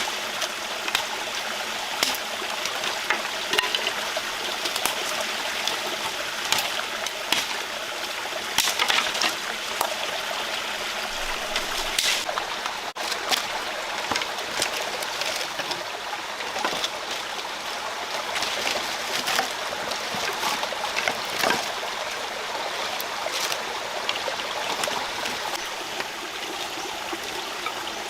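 Rocky rainforest stream running and trickling over stones, a steady rush of water, with many short sharp clicks and splashes scattered through it.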